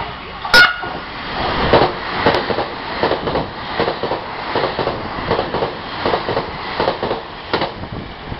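Express train passing through a station: its wheels clatter over the rail joints in uneven, often paired clacks over a steady rumble, with one sharp crack near the start. No horn sounds.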